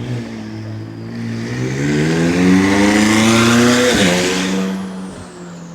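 A car engine accelerating hard as the car drives off. Its note climbs steadily and grows loud for about four seconds, then drops sharply and settles to a steady lower note.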